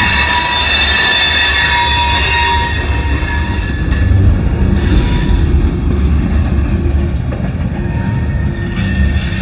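Union Pacific freight train cars rolling past on the rails, with high wheel squeal of several steady tones for the first few seconds. The squeal stops about three seconds in, leaving the heavy rumble and clatter of the wheels as the tank cars roll away.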